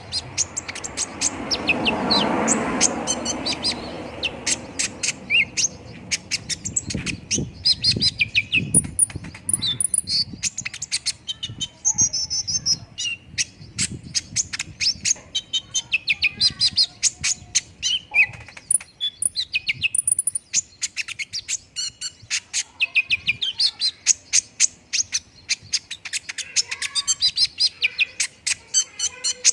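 Kolibri ninja (Van Hasselt's sunbird) singing a rapid, high-pitched string of chirps and twitters without a break, the kind of lively song played as a lure to get other birds of its kind singing. A louder rustling noise sits under the song for the first few seconds.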